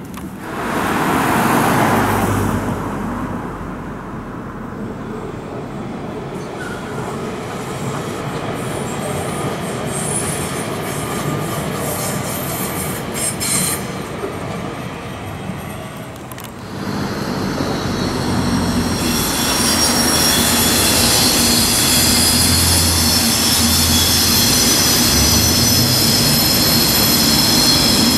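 Electric regional trains running over an elevated railway viaduct. About halfway through, a louder train comes on: a red double-deck regional set with an electric locomotive, its wheels squealing in several high steady tones over a low hum.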